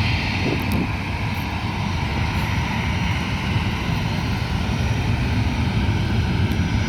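Boeing 767-300's twin turbofan jet engines running, a steady low rumble with a hiss above it.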